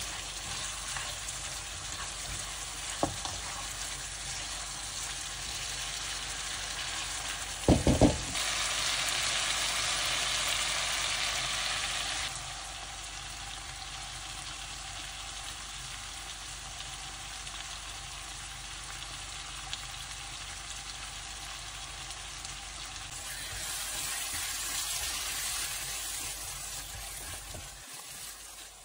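Mutton curry sizzling in a frying pan, a steady hiss with stirring. A quick cluster of sharp knocks about eight seconds in is the loudest sound, and the sizzle is louder for a few seconds after it and again near the end.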